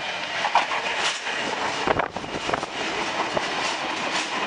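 V-set double-deck electric intercity train passing close by, a steady rumble with repeated clicks of the wheels running over the rails.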